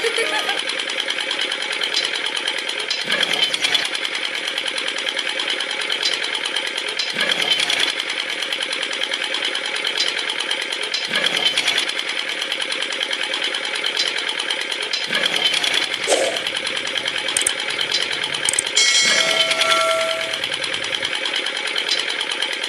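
A small motor-driven model mechanism running with a fast, steady rattle, getting louder in a regular swell about every four seconds. A brief squeal comes in around twenty seconds in.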